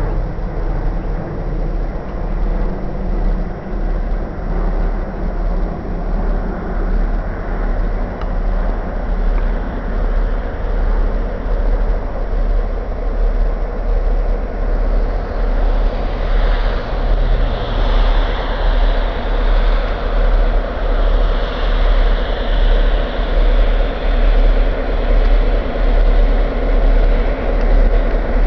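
A freight train led by EMD GP9u diesel-electric locomotives rolling by with a train of autorack cars. It makes a loud, steady rumble whose loudness pulses in a regular rhythm in the second half, and a higher hiss joins it about halfway through.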